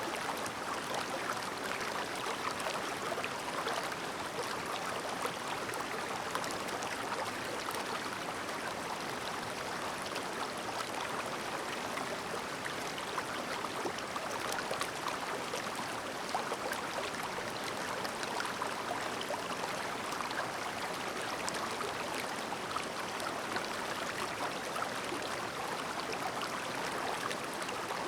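Clear mountain stream babbling steadily: a constant rush of water over its bed, dotted with many small quick splashes and trickles.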